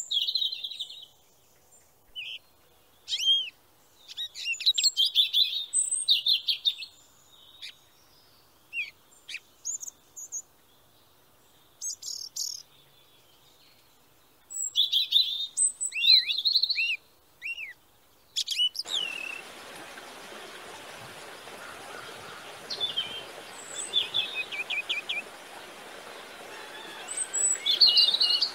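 Small birds chirping and singing in quick bursts of high chirps, trills and downward-swooping notes, with short quiet gaps between. About two-thirds of the way through, a steady outdoor hiss comes in under the continuing bird calls.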